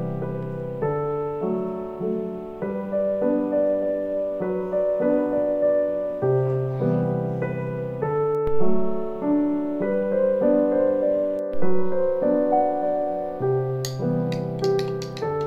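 Background piano music: a gentle melody of held notes. A few sharp clicks come in near the end.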